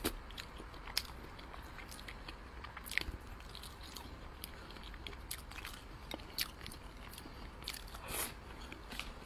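Close-miked chewing of soft braised pork belly: wet mouth clicks and smacks scattered through, with a sharper one about three seconds in and a longer, wetter smack near the end as a new piece goes in.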